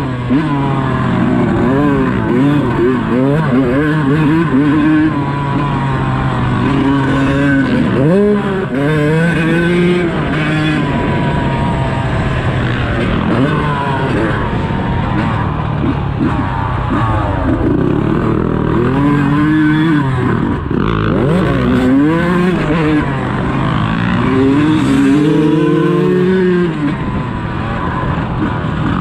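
Dirt bike engine on a motocross track, revving hard and repeatedly rising and falling in pitch as the rider opens and closes the throttle and shifts.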